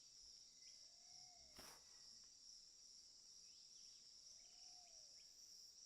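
Faint rainforest ambience: a steady high-pitched insect drone, with two soft short calls about three seconds apart and a light click about a second and a half in.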